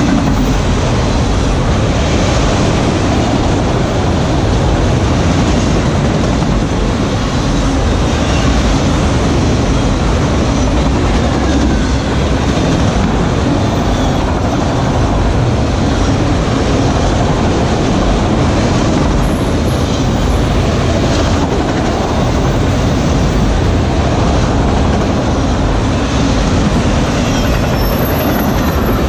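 CN freight train of autorack cars passing: a steady, loud rumble of steel wheels on the rails.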